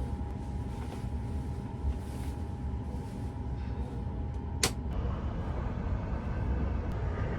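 Steady low rumble and hum inside a sleeper train carriage. A steady whine runs along with it and cuts off at a single sharp click about two-thirds of the way through.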